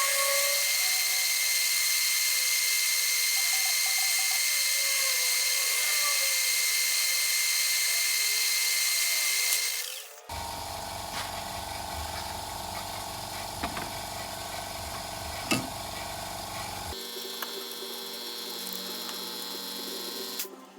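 A metal lathe running in a machine shop: a steady machine whine and hiss that changes character abruptly twice, about halfway through and again near the end, with a couple of sharp clicks in the middle stretch.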